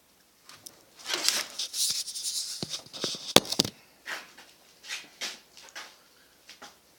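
Objects being handled: a run of rustling and scraping with a sharp click about three and a half seconds in, then a few shorter separate knocks or scrapes.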